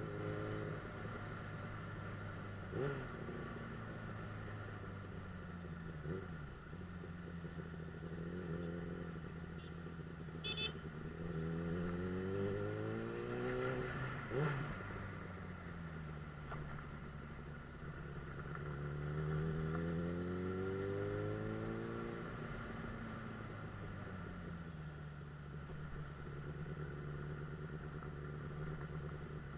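Suzuki GSF 600 Bandit's inline-four engine running while riding, rising in pitch as it accelerates twice, about a third of the way in and again about two-thirds in, then settling back to a steady cruise. A few short knocks are heard along the way.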